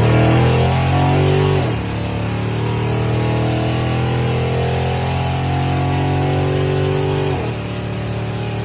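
A straight-axle gasser's engine running loud at fairly steady revs, its pitch dropping suddenly about two seconds in and again near the end.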